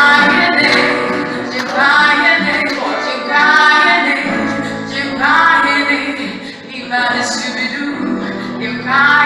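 A band playing, with voices singing in repeated short phrases over the accompaniment.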